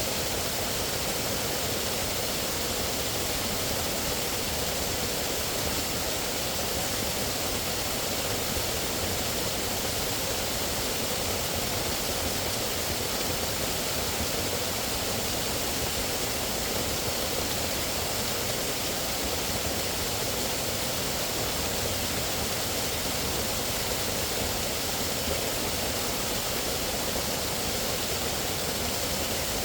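Steady rush of running water, even and unchanging throughout.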